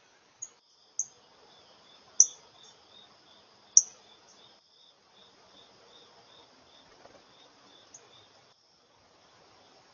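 Several sharp, short bird chirps, the loudest two about two and four seconds in, over the steady high trill of insects and a regular pulsing cricket chirp, about two a second.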